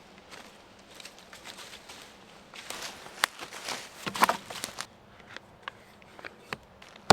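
Irregular rustling and crunching in dry leaf litter as someone moves about and handles cut branches. The sounds are busiest in the middle and end with a sharp click.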